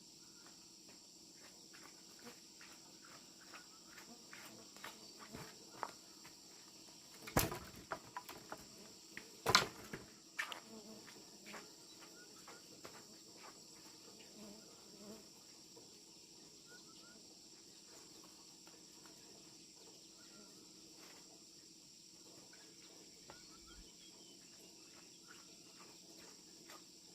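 Steady high chirring of crickets and other insects, with scattered light taps and clicks and two louder knocks, about seven and a half and nine and a half seconds in.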